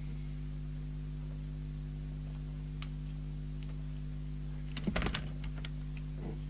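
Light clicks, then a short clatter of clicks and knocks about five seconds in, from handling on an electronics workbench, over a steady low electrical hum.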